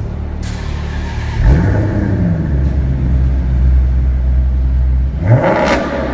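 A performance car's engine and exhaust revving: the pitch climbs about a second and a half in and holds as a loud, steady low drone, then climbs again near the end with a sharp crack.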